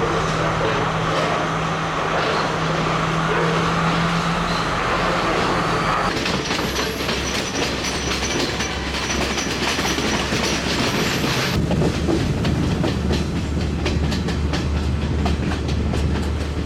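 Passenger train running along the rails, its wheels clattering over the track under a steady low hum. The sound changes abruptly twice, about six and about twelve seconds in.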